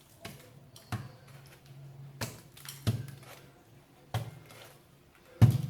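Hands working with sand on a craft piece: about five sharp taps and knocks spaced a second or so apart, over a faint steady low hum.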